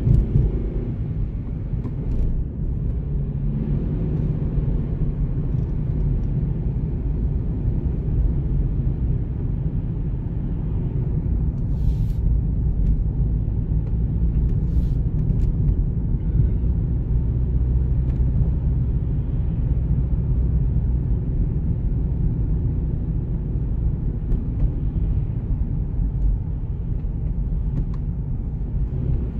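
Steady low rumble of a car driving along a road, with a couple of faint brief clicks about halfway through.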